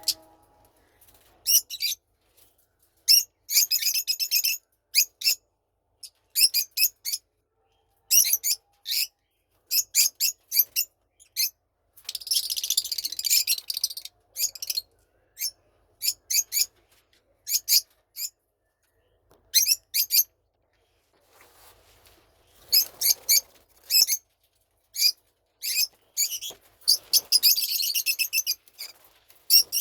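Young lovebirds, about four months old, giving short, sharp high-pitched chirps in irregular bursts with silent gaps between. Now and then the calls run together into rapid chatter lasting a second or two.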